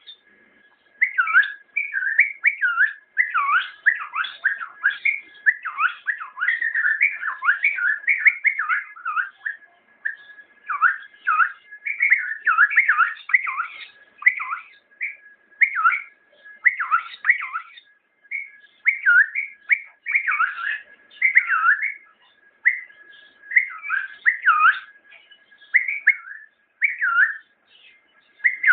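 Bulbul singing: short, clear whistled phrases with swooping pitch, repeated one after another with brief pauses.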